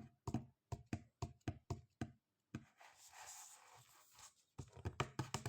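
Light clicks and knocks of small objects being handled, about two to three a second, with a soft rustle in the middle.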